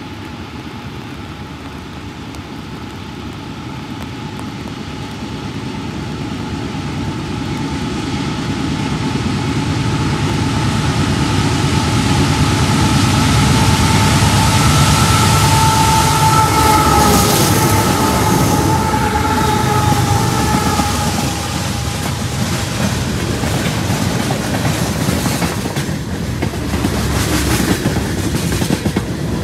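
A fast CSX freight train led by GE diesel locomotives (two CW44ACs and an ES44AH) approaches and passes. The engines grow from a distant rumble with a steady whine to a loud pass, and the whine drops slightly in pitch as they go by. The freight cars then rush past with rhythmic clickety-clack from the wheels over the rail joints.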